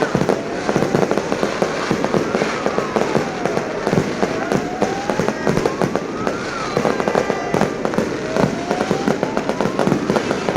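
Fireworks going off in a rapid, continuous barrage of bangs and crackles. A slow wailing tone rises and falls behind them every couple of seconds.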